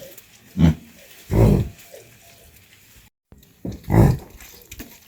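An animal's short, loud, rough calls, about four of them, two close together about a second and a half in and two more near four seconds.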